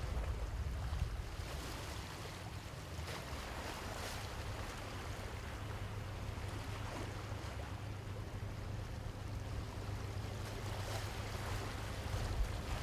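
Steady low rumble under wind and water noise, like the ambience on or beside a ship at sea.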